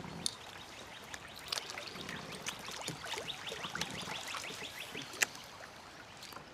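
Water trickling and dripping at the kayak, with small clicks and splashes, while a bird calls in a quick run of short chirps in the middle.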